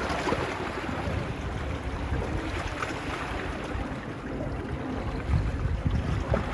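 Sea waves washing on a beach, with wind buffeting the phone's microphone.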